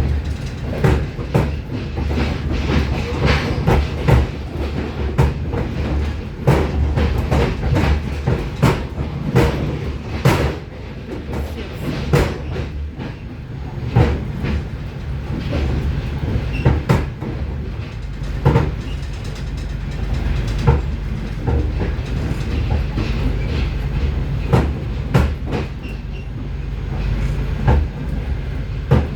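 Passenger train running at speed, heard from inside the carriage: a steady, loud rumble of wheels on rails with frequent sharp knocks and clatter from the rail joints. The racket is terrible.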